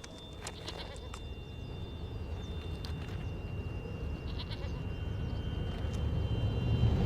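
Alpine ibex bleating, with a few sharp clicks of hooves on stone in the first second or so. A low rumble grows steadily louder toward the end.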